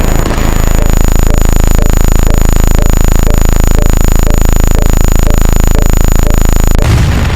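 Loud, steady electronic buzzing drone, a sound effect, with a faint tick about three times a second. A rough, noisy burst breaks in near the end.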